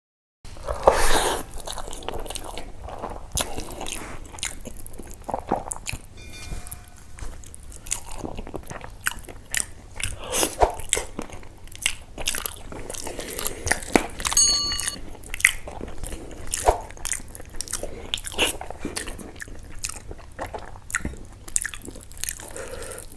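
Close-miked eating: a mouth chewing and crunching mouthfuls of rice and fish curry, with many wet clicks and crackles. A short ringing clink sounds about fourteen seconds in.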